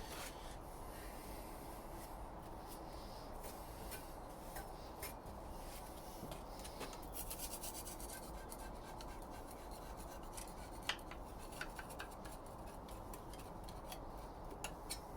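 Faint hand rubbing and scraping on the engine block's oil-pan mating surface as it is cleaned, with scattered light clicks.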